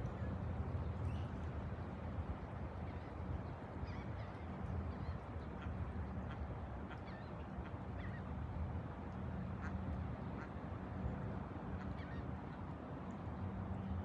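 Waterbirds making soft, scattered calls over a steady low rumble.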